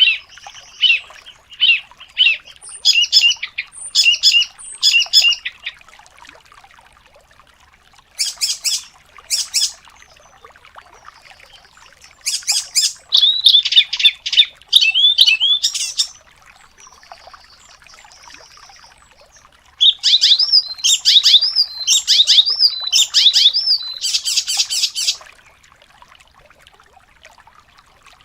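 Songbird song: bursts of rapid, high chirping and trilling phrases a few seconds long, separated by short pauses.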